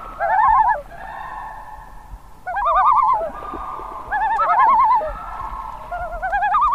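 Birds calling in loud quavering, warbling bursts, several voices at once, four times about every one and a half to two seconds, over softer steady calling.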